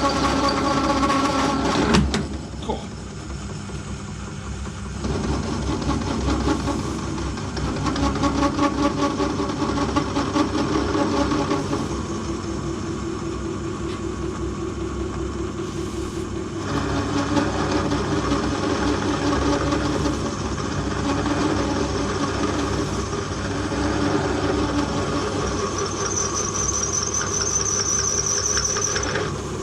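Metal lathe running while a parting-off tool cuts through a spacer, the tool chattering and whining as it cuts. A sharp bang about two seconds in, and a high squeal for a few seconds near the end.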